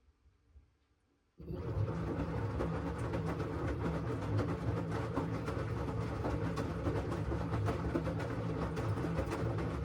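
LG front-loading washing machine starting up about a second and a half in, then running steadily with a low hum and a dense, rattling churn.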